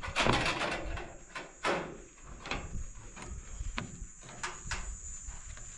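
Scraping and a string of sharp clicks and knocks as a split-pipe rainwater gutter is handled and tied tight in place, with a rustling scrape in the first second.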